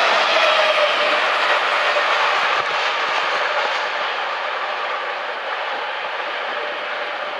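Freight train cars rolling past on steel rails: a steady rush of wheel-on-rail noise that slowly fades.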